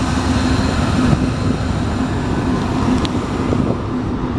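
A train passing, with a steady loud rumble and a faint steady whine over it.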